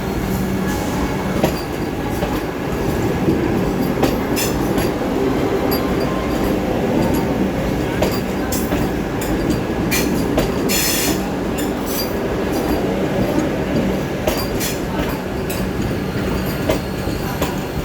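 Vande Bharat Express train set rolling out on departure: steady running rumble with wheels clicking irregularly over rail joints, and a short hiss about eleven seconds in.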